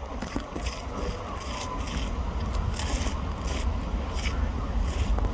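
Electric multiple-unit train running past: steady rumble with scraping wheel-on-rail noise and irregular light rattles.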